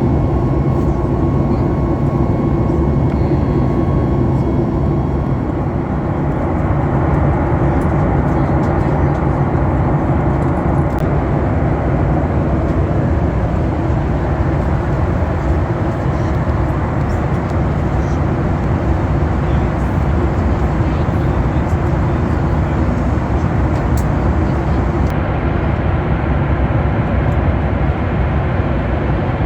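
Steady cabin noise of a Boeing 737 MAX 8 in flight: a loud, even rush of engine and airflow noise with a low hum under it from its CFM LEAP-1B engines.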